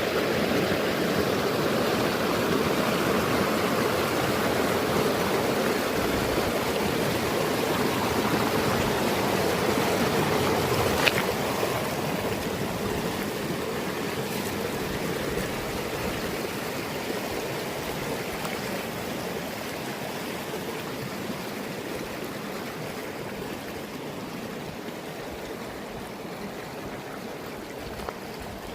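Mountain stream rushing over rocks, a steady wash of water that slowly grows fainter. A single brief click about a third of the way through.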